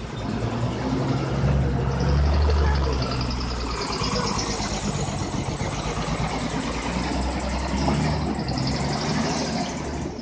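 Truck engine running at low speed, a steady low hum that is louder about two seconds in.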